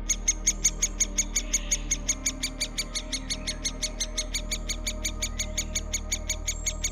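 A bird calling in a fast, even series of short, sharp, high notes, about seven a second.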